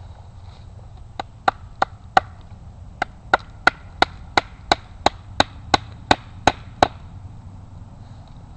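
Wood being chopped: about sixteen sharp blows of a blade into wood, roughly three a second, with a short pause about two seconds in.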